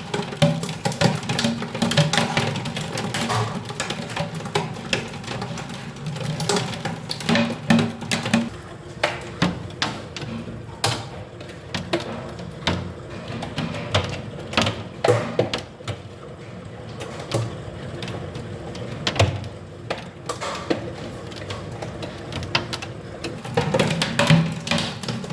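Hailstones striking a hard surface: a dense, irregular clatter of sharp clicks and knocks, heaviest at the start and again near the end, over a steady rushing background.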